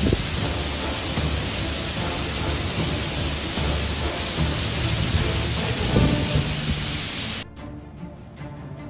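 A loud, steady rushing hiss over background music. The hiss cuts off suddenly about seven seconds in, leaving the music with sharp percussive hits.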